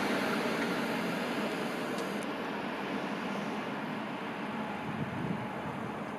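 Passenger train hauled by an ÖBB electric locomotive running away from the listener, its rolling noise a steady rush that fades gradually into the distance.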